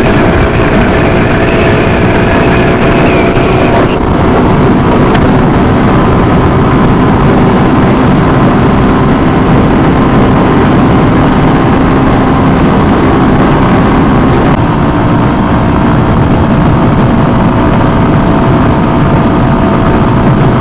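Motorcycle engine running at steady cruising speed on an open road, buried in loud wind buffeting on the microphone. The engine note changes about four seconds in and again about two-thirds through.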